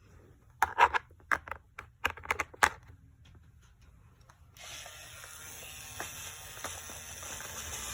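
Hard plastic toy parts clicking and knocking together a dozen or so times. About halfway in, a toy battery-powered drill starts whirring steadily as it drives a plastic screw into the toy airplane.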